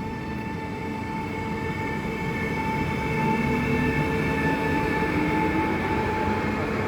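Train running along the track and drawing nearer, its rolling rumble growing gradually louder under several steady whining tones.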